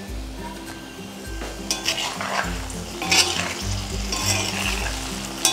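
Brinjal pieces sizzling in oil in an iron kadai while a steel ladle stirs them, with several scraping strokes against the pan from a couple of seconds in.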